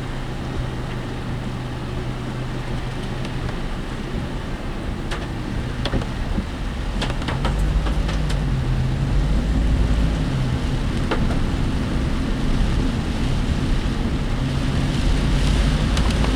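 Cabin noise in a work vehicle on the move: a steady engine hum and road rumble that grow louder and rise in pitch from about seven seconds in as it speeds up. Scattered sharp knocks and rattles from the vehicle's body come through in the middle.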